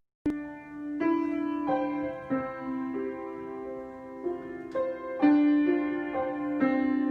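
Solo piano improvisation in a slow tempo, with held notes and chords changing every second or so. Playing starts again just after a short break and click at the very start.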